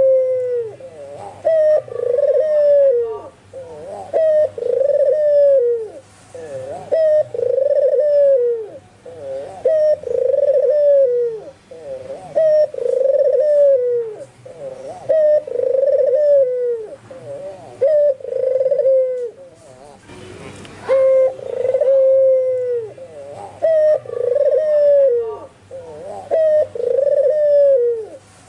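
White albino puter (Barbary dove) cooing again and again, one arching coo roughly every second and a half, with two short breaks partway through. Faint higher chirps sit behind the coos.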